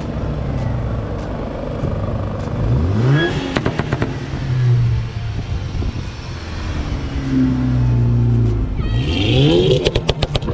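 Car engine running, revved up twice with rising pitch. Each rev is followed by a quick rattle of sharp pops.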